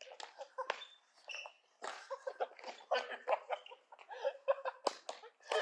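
People laughing and giggling in short, uneven bursts, with a few sharp clicks in among them.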